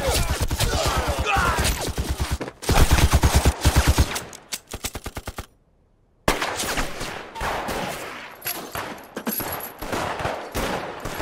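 Gunfire from a film battle: rapid bursts of machine-gun fire mixed with single shots, broken by a sudden silence of under a second about halfway through, after which the shooting resumes.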